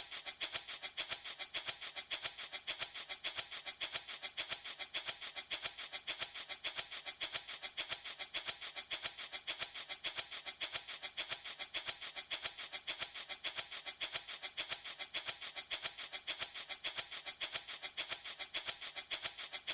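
A handmade baby rattle shaken continuously in a steady, even rhythm, its beads making a bright, hissy rattle.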